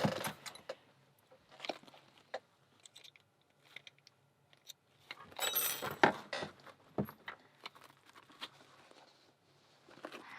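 Small metal parts of an American 1100 padlock being handled during reassembly: scattered sharp clicks and clinks, with a busier spell of rattling about halfway through.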